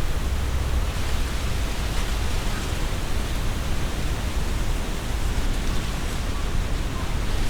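Strong wind blowing through trees, the leaves rustling steadily, with a low rumble of wind underneath.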